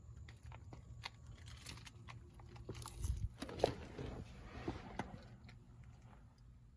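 Faint clicks and rustling from the manual driver's seat adjusters being worked, busiest in the middle and dying away near the end.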